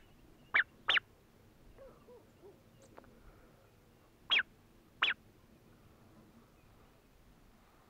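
Bird calls: five short, sharp, high calls, each falling in pitch. Three come in the first second and two more about four to five seconds in.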